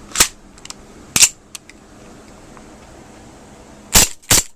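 Aftermath M9 gas blowback airsoft pistol firing on a WeTech CO2 magazine, single shots with the slide cycling: two shots about a second apart, then after a pause two more in quick succession near the end. The CO2 magazine is giving poor gas efficiency.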